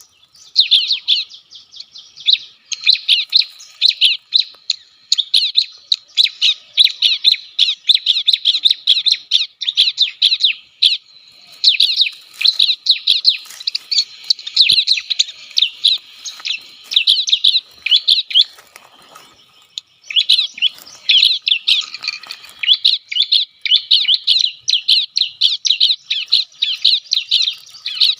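Bar-winged prinia (ciblek) calling: fast, repeated sharp high chirps in long dense runs, with a short lull about two-thirds of the way through.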